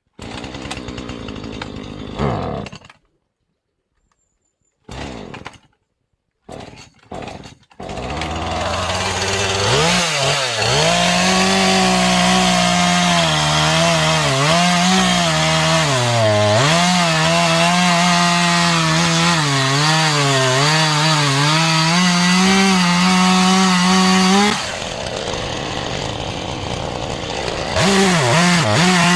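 Two-stroke chainsaw cutting wood. A few short bursts broken by silences, then from about eight seconds in the engine runs steadily under load, its pitch dipping and wavering as it bites. It eases off near the end and picks up again just before the end.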